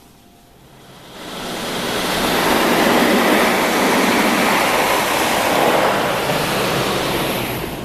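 Water jets from a Ryko RADIUS HT touch-free car wash spraying over the car and heard from inside it: a loud, steady rush of spray that swells in about a second in, holds for several seconds and fades near the end as the spray arm passes.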